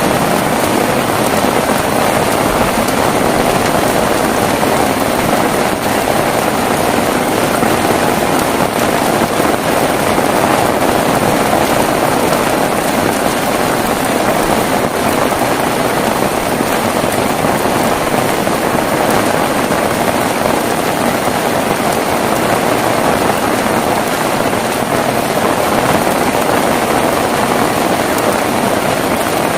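Heavy rain falling steadily, a loud, unbroken hiss with no thunder.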